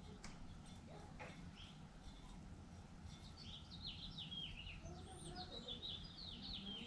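A small songbird singing a quick run of down-slurred high notes, starting about three seconds in, over a low steady rumble.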